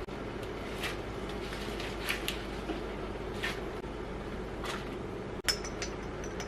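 Light taps and clinks of dishes and cutlery over a steady low hum, with one sharper clink about five and a half seconds in that rings briefly.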